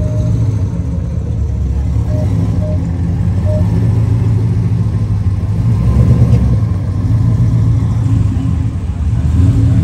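Car engine running at low speed: a steady, deep rumble that swells slightly about six seconds in.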